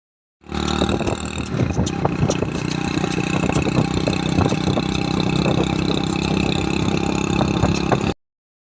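Motorcycle engine running steadily, with many small clattering ticks over it; the sound starts abruptly about half a second in and cuts off suddenly just after eight seconds.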